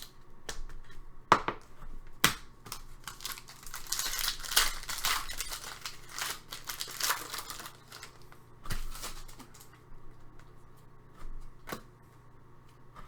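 Hockey card pack wrapper being torn and crinkled open, with sharp clicks and taps of cards and packaging being handled before and after. The crinkling is densest for a few seconds in the middle.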